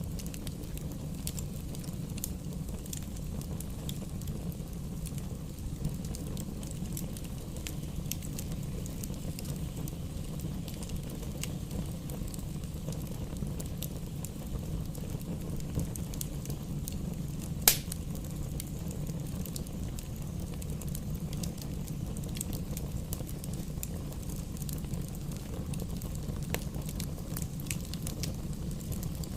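Wood fire burning in a fireplace: a steady low rumble of the flames with scattered crackles of the firewood, and one sharp, louder pop a little past halfway.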